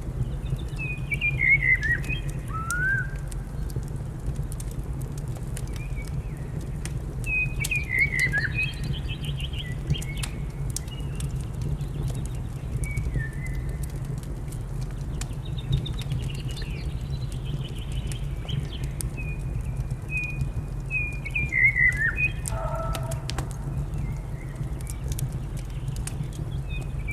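Songbirds singing, with a loud falling phrase three times and softer chirps between, over the scattered crackle and steady low rumble of a wood fire.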